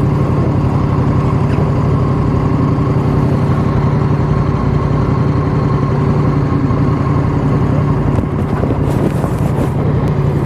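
Motorcycle engine running with a steady, unchanging note.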